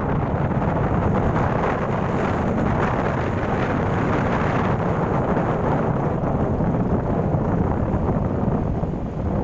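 Wind buffeting the microphone: a steady, deep noise without breaks.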